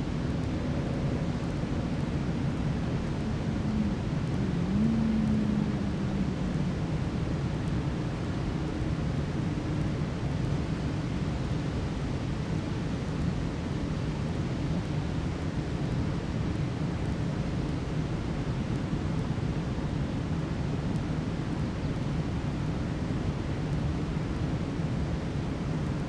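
Optimus camping stove burner running with a steady rushing sound under a pot of water at a rolling boil.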